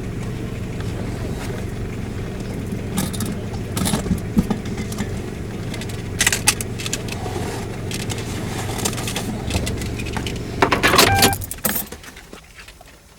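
A car engine idling steadily, with keys jangling and rattling in bursts. The engine stops about 11 seconds in, just after a burst of key jangling, as if switched off with the ignition key.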